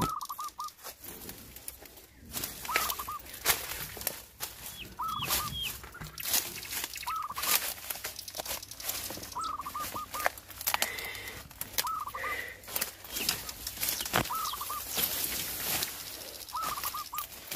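A bird calling over and over: short runs of three or four quick notes, repeated roughly every two seconds, with scattered knocks and rustling underneath.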